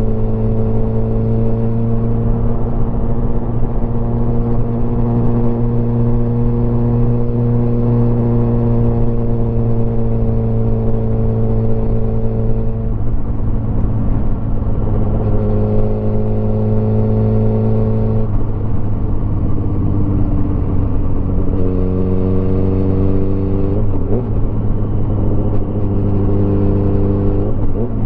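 Motorcycle engine running under way, its pitch holding steady for about the first thirteen seconds, then stepping up and down several times in the second half.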